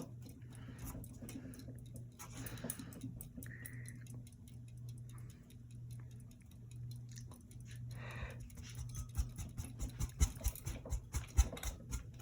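Hampton Bay Landmark III Plus ceiling fan running on low, its motor giving a steady low hum. Light ticks and clicks come and go, crowding together in the last few seconds.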